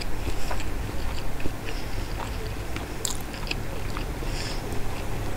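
Close-miked chewing of a mouthful of rice and lote macher jhuri (shredded Bombay duck curry): small wet mouth clicks and smacks scattered throughout, with a sharper click about three seconds in, over a steady low hum.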